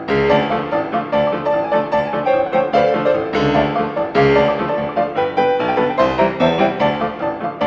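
Piano music: a fast run of struck notes with no singing.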